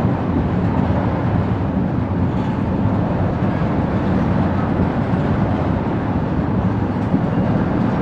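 Tank cars of a freight oil train rolling steadily past, a continuous noise of steel wheels on the rails.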